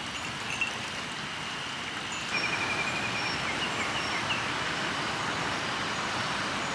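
River water flowing steadily, stepping louder about two seconds in, with a short run of high chirps just after the step.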